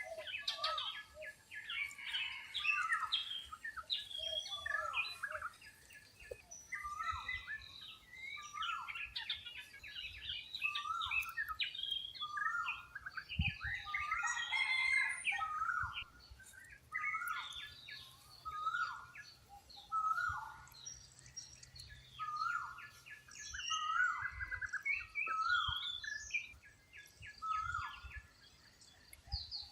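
Birds calling: a short call repeated about once every second or so, among a dense mix of higher chirps and peeps, from a red junglefowl hen with her chicks and other forest birds.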